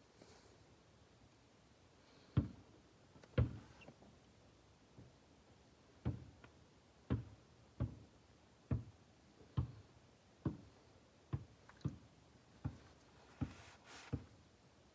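A series of short, sharp knocks or taps in a quiet space: two early, then a run of about one a second that goes on for several seconds.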